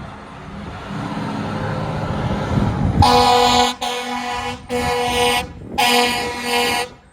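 Fire apparatus responding to a call: a heavy vehicle rumbles past for about three seconds, then its air horn sounds in a series of about five loud blasts, the last two nearly run together.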